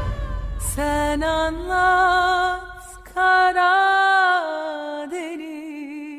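A solo voice singing long, held wordless notes with vibrato, nearly unaccompanied, as the theme song ends; the backing music fades out in the first second or two.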